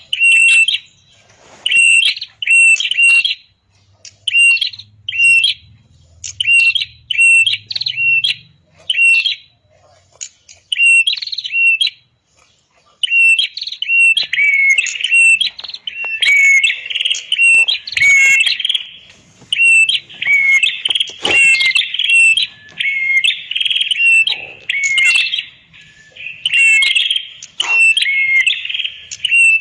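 Red-headed prenjak singing a rapid series of short, sharp chirps. About thirteen seconds in, after a brief pause, the song grows busier, with a lower, falling second note added to each phrase.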